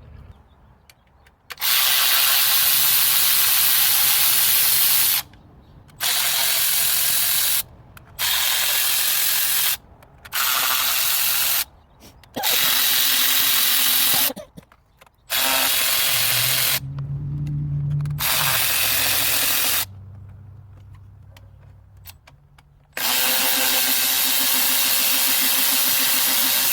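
A power tool run in eight bursts of one to four seconds each, stopping and starting, with a loud hissing whir.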